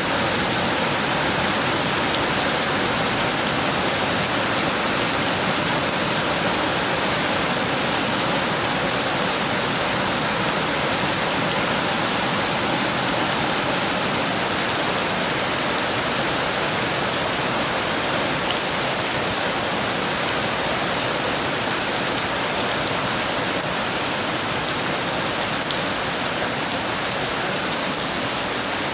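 Heavy rain falling steadily: an even, unbroken hiss with scattered drop ticks, and no thunder.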